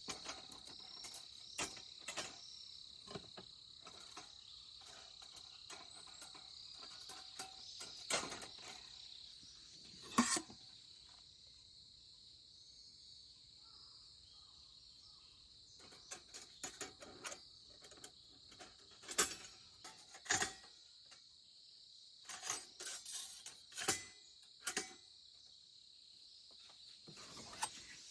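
Crickets trilling steadily at a high pitch, with scattered clinks and knocks of cooking utensils and cookware. The loudest knocks come about ten seconds in and in a cluster after the middle.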